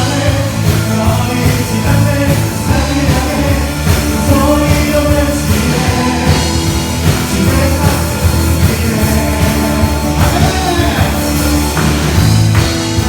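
Contemporary Christian praise song played live by a worship band, with singing over a full band with drums, at a steady loud level.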